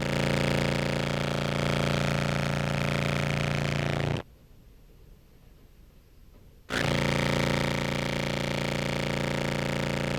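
Contrabass clarinet sounding a steady, heavily fuzzed and compressed note with a buzzing, growling tone. About four seconds in it cuts off abruptly, and about two and a half seconds later it comes back just as suddenly.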